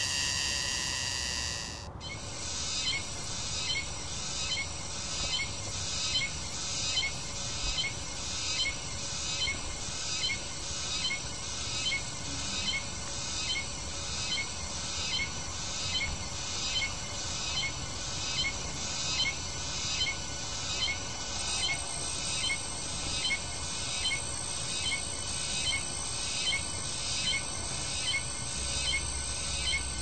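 A bird calling over and over, about once a second, in an even rhythm. A brighter, louder sound stops abruptly about two seconds in.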